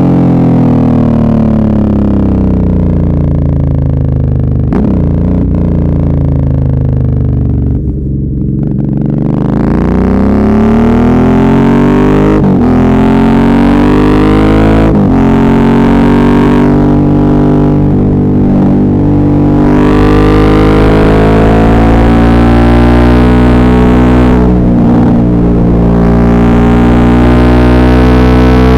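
Suzuki V-Strom 650's V-twin engine heard from the rider's position. It slows off the throttle for the first several seconds, then picks up again with gear changes around midway and holds a steady pace near the end.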